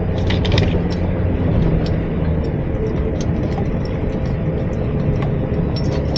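Vehicle engine running steadily with a low hum, with scattered small rattles and knocks, heard from inside the cab.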